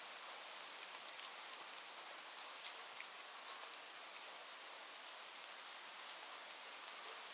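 Steady rain falling, an even hiss with many small scattered drop taps.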